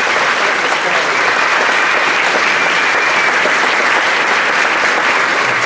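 A large audience applauding steadily in a gymnasium, a round of applause for veterans standing to be honoured.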